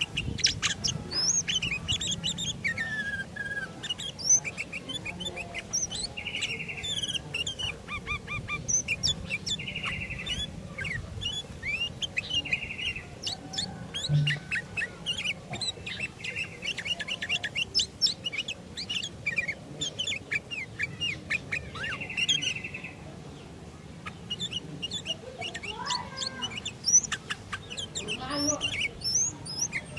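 Sooty-headed bulbuls (kutilang) calling: many quick chirps and whistles with several short buzzy trills, over a low steady hum, pausing briefly about three-quarters of the way through.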